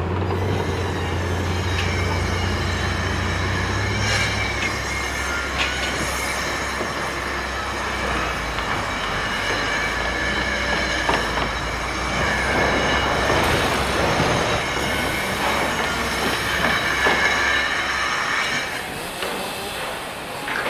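A large vehicle running, with a steady low rumble and a high metallic squeal held over it; the rumble drops away near the end.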